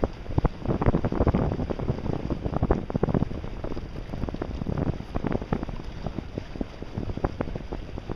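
Wind buffeting the microphone aboard a sailboat under way, in uneven gusts, with water slapping and splashing around the hull.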